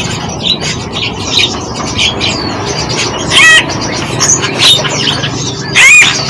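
Several songbirds chirping and whistling together, with two louder calls, each a quick run of notes, about three and a half seconds and six seconds in.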